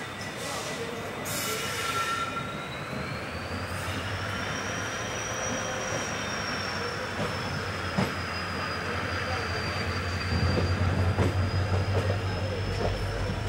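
Express train arriving, its steel wheels squealing in one long high-pitched note that rises a little and then holds. Underneath is a rolling rumble that grows louder about ten seconds in.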